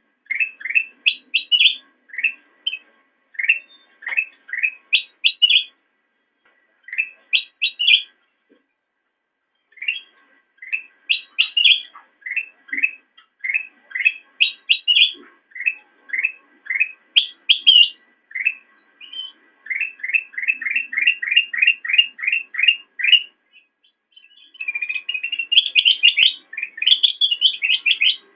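Kutilang emas, a bulbul, singing in phrases of short, quick, upward-swept chirping notes separated by short pauses. About two-thirds of the way through there is a fast, even run of notes, and near the end a dense chattering burst.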